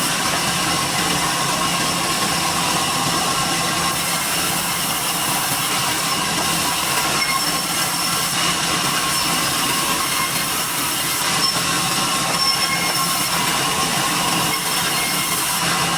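Sawmill saw cutting through a durian log: a loud, steady rush of cutting noise with a high metallic whine running through it.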